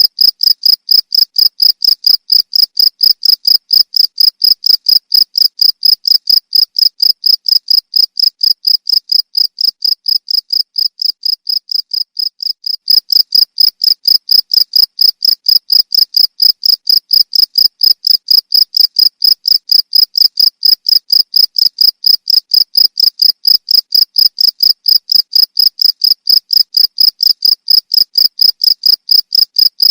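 Cricket chirping: a steady, fast train of short high-pitched pulses at an even rhythm, growing quieter for a few seconds near the middle before returning to full strength.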